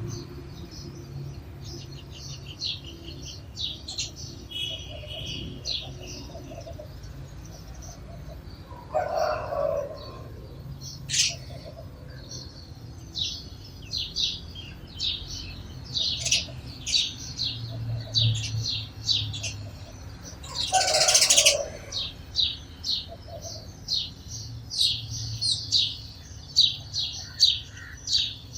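Sparrows chirping in many quick, short notes, with two brief louder bursts, one about nine seconds in and a stronger one about twenty-one seconds in.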